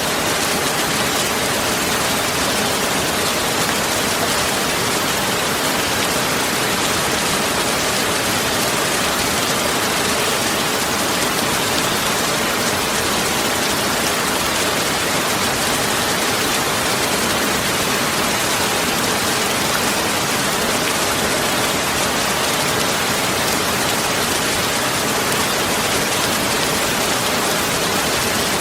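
Steady, even hiss of noise spread across all pitches, unbroken and unchanging.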